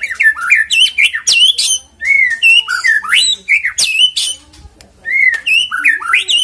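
White-rumped shama (murai batu) singing loud, varied whistled song phrases with quick up-and-down glides and sharp clicks. The song comes in three bursts of about two seconds each, separated by short pauses.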